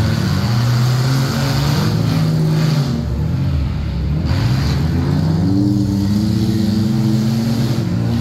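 Engines of several enduro derby cars running laps on a dirt track. The engine note drops from about two seconds in, then climbs again from about five seconds as a car accelerates past close by.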